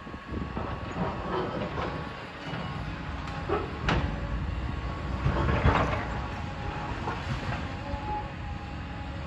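Demolition machinery working on a building, a steady engine drone under irregular crunching and clanking of breaking debris, with a sharp crack about four seconds in and a louder burst of crunching a little later.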